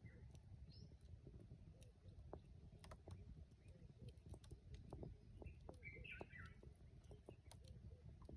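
Faint wood campfire crackling, with scattered small pops and ticks. A common bulbul gives a short, chattering call about six seconds in.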